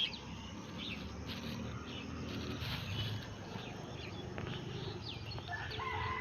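Outdoor rural ambience: birds chirping in short, scattered high notes over a low, steady rumble.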